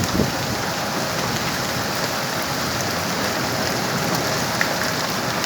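Steady rain falling and pattering on surfaces, an even hiss with no break.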